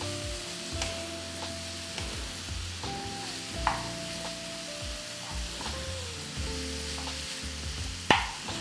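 Minced mutton sizzling as it fries on high flame in a nonstick pan, stirred with a wooden spatula that knocks against the pan a few times, the loudest knock near the end. Soft background music with held notes plays underneath.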